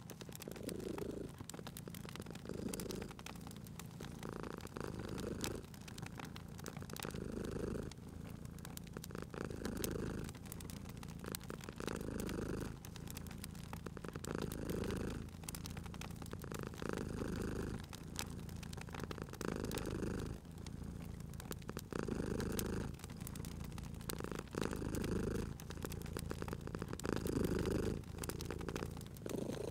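A cat purring steadily, its low rumble swelling and easing about every two and a half seconds with each breath, over the sharp pops and crackles of a wood fire.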